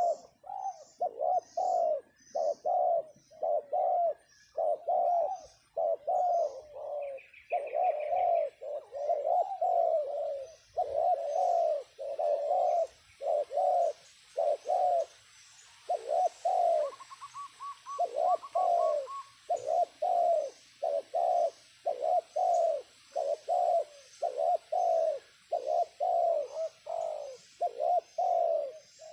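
Spotted doves (terkukur) cooing in a long, near-continuous run of repeated coos: a decoy dove calling to lure wild doves down to the trap. A smaller bird chirps faintly over the first few seconds.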